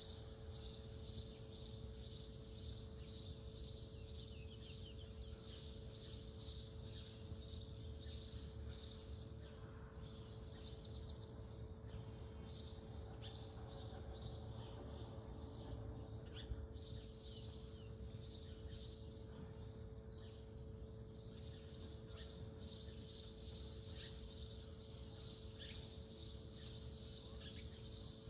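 Faint, continuous high-pitched chirping, many rapid chirps with brief pauses, over a steady low hum.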